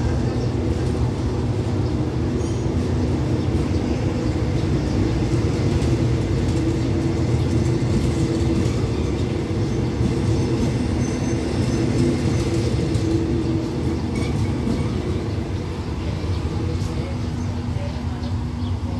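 Passenger coaches of an express train rolling past on the rails as it pulls out of the station, a steady rumble with a low hum. The sound eases a little as the last coach draws away near the end.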